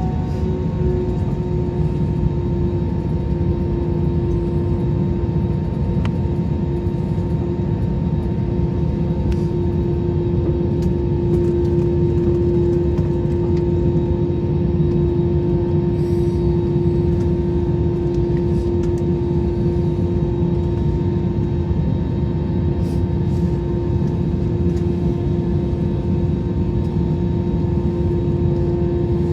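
Jet airliner engines running steadily, heard inside the cabin as a steady rumble with a droning tone that settles slightly lower in pitch in the first couple of seconds.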